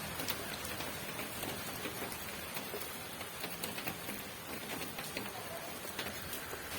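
Steady rain: an even hiss with many sharp, scattered drop taps on a surface.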